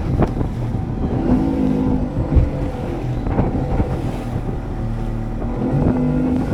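A vehicle engine running under way, its pitch rising and falling as the throttle changes, with wind buffeting the microphone.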